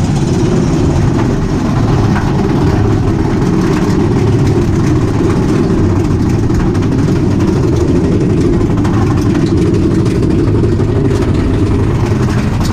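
Big Thunder Mountain Railroad mine-train roller coaster running along its track, heard from aboard: a loud, steady, low rumble.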